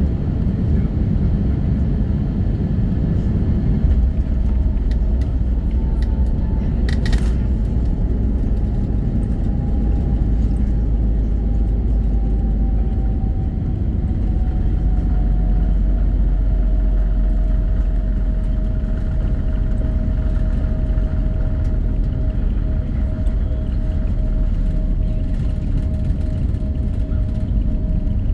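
Airbus A320neo cabin noise: a loud, steady deep rumble with a faint engine whine that slowly falls in pitch, and a single sharp knock about seven seconds in.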